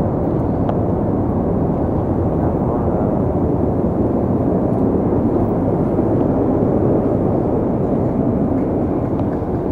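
Steady cabin noise of a Boeing 777-200 in flight, engine and airflow noise heard from an economy window seat, even and unchanging.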